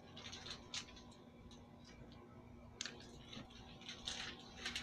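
Quiet room tone with a low hum and a few faint, scattered clicks.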